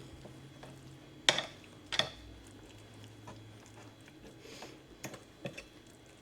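A fork clinking against a dish while mashing beans and cornbread: two sharp clinks about a second and two seconds in, then a few lighter taps near the end.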